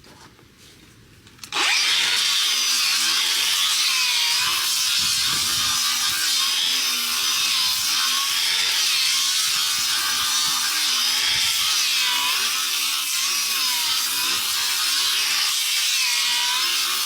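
A power tool grinding down a horse's hoof horn, starting up about a second and a half in and running steadily. Its pitch wavers up and down as it is pressed into the hoof.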